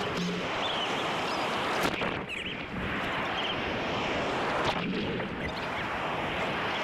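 Ocean surf washing steadily, with wind blowing on the microphone.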